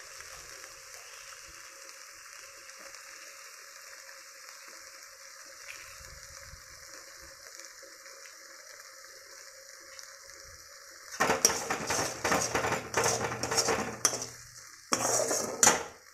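Chopped tomatoes and spice paste sizzling steadily in hot oil in a kadai. Near the end a metal spatula stirs and scrapes against the pan in two loud spells.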